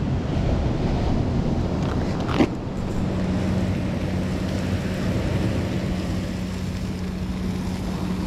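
Wind rumbling on the microphone with a faint steady low hum, and a single sharp click about two and a half seconds in.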